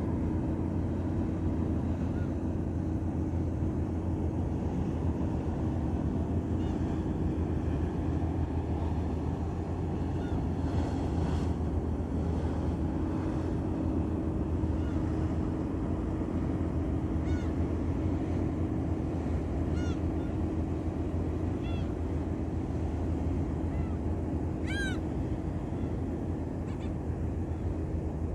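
Ship's engine running with a steady low drone. Short high calls of birds come over it every few seconds, the loudest about 25 seconds in.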